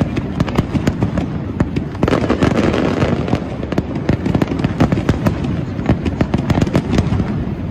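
Aerial fireworks in a dense barrage: many shell bursts and crackles overlapping, several a second, without a break.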